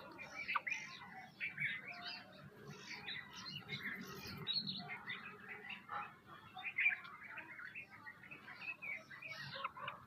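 A flock of sparrows and mynas chirping and chattering, with many short, overlapping calls and no break.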